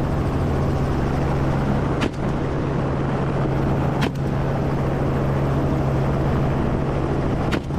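Helicopter running in flight, a loud steady drone of engine and rotor over rushing noise, broken by brief clicks about two, four and seven and a half seconds in.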